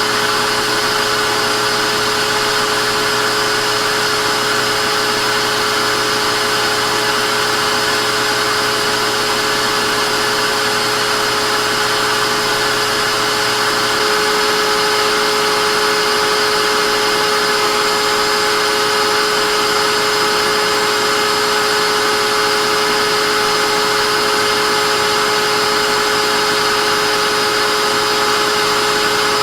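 Vacuum cleaner motor running continuously: a steady rushing whir with a fixed high whine. About halfway through the sound shifts slightly: a low hum drops away, a new higher whine comes in, and it gets a touch louder.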